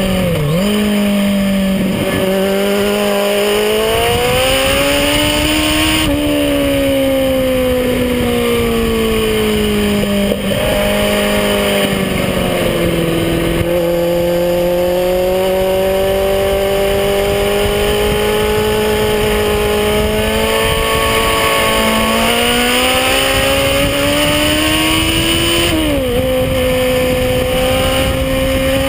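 Kawasaki Z800e's inline-four engine pulling hard up a twisty mountain road, its revs climbing and falling as the bike is worked through corners, with several sudden drops in pitch at gear changes.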